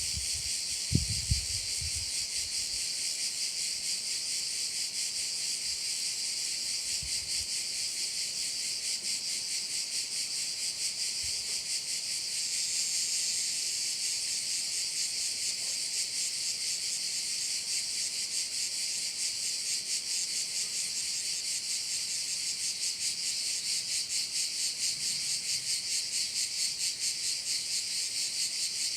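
A dense chorus of cicadas singing continuously, a shrill high buzz that pulses quickly and evenly. A couple of brief low thumps come about a second in.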